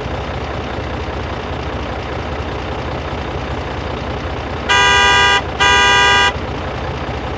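A vehicle horn honks twice, two short steady blasts a little apart, over a steady low engine running.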